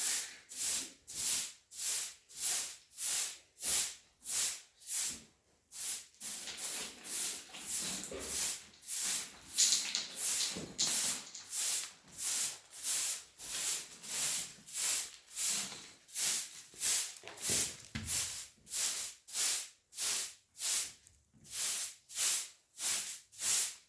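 Rhythmic rasping strokes of a hand tool or scrubbing motion, about two a second, evenly paced.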